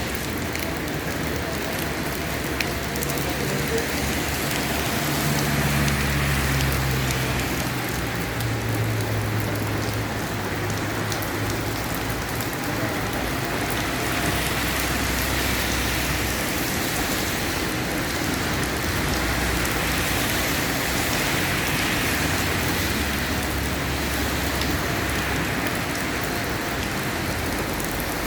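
Steady rain falling, with a low rumble underneath that comes and goes.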